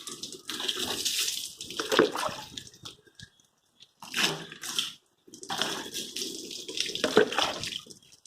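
Water splashing and running while a car is washed by hand, in several bursts broken by short silent gaps about three and five seconds in.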